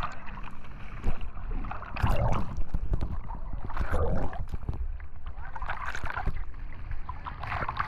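Jet ski running over open water, heard from on board: engine and rushing water with a rumbling wash, surging every second or two as the hull meets the waves.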